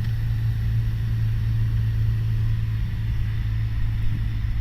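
Piper PA-28 Warrior's four-cylinder Lycoming engine and propeller heard from inside the cabin, a steady low drone at constant power in level flight on the downwind leg.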